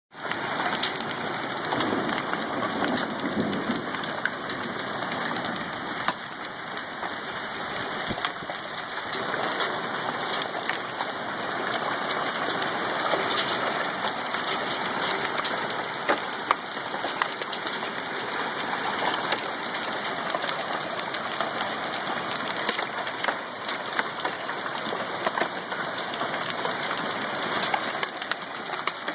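Hailstorm: a dense, steady rush of falling hail, with many sharp ticks of individual hailstones striking.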